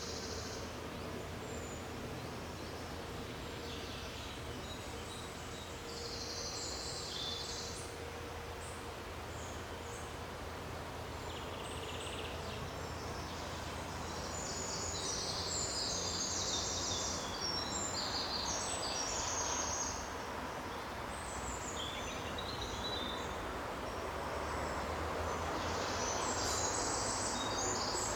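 Forest ambience: birds chirping and singing in scattered, intermittent bursts over a steady background hiss and low hum.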